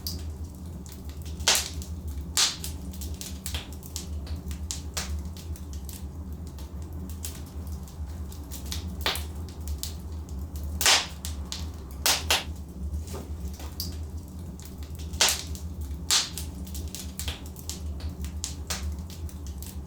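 Wood logs burning in a fireplace: irregular sharp crackles and pops, a few of them much louder, over a steady low rumble.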